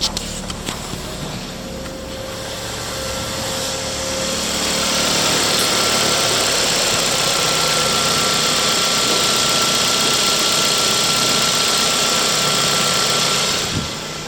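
Volvo V50's 2.0-litre B4204S3 four-cylinder petrol engine running steadily. About five seconds in it grows louder, with a steady hiss and a thin whine, and it falls back near the end.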